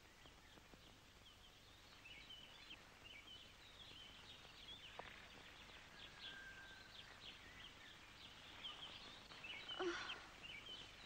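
Faint forest birdsong: many short, high chirps and trills from small birds, briefly louder near the end.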